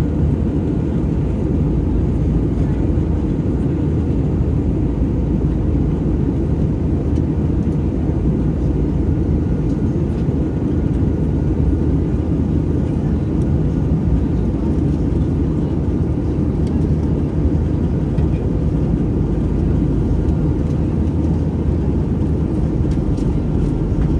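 Steady in-flight cabin noise of an Airbus A320 airliner: engine and airflow noise making an even low rumble, with a faint steady hum above it.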